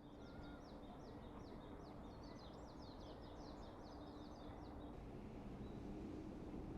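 A small songbird singing a rapid run of high chirping notes, which stops about five seconds in. Underneath is a faint, steady outdoor background noise with a low hum.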